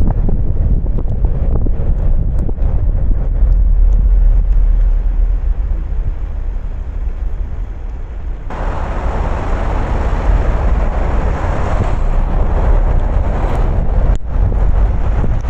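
A car driving on wet roads in the rain: a steady low rumble of wind buffeting the microphone and road noise. About halfway through, a louder even hiss comes in suddenly and carries on to the end.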